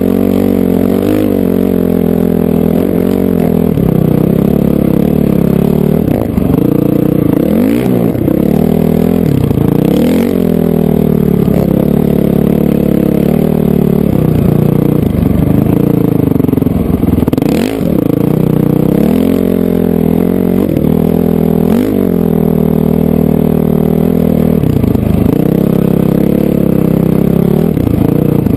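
Honda CRF450R four-stroke single-cylinder dirt bike engine running hard under throttle, its revs dropping and climbing again several times as the throttle is rolled off and back on.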